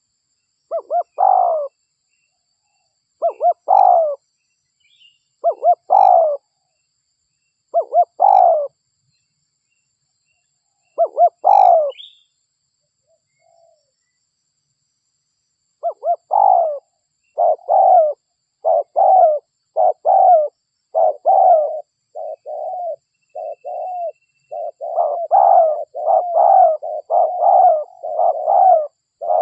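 Derkuku (spotted dove) cooing: five separate coo phrases about every two and a half seconds, then after a pause of about four seconds a fast run of short coos that is almost unbroken near the end.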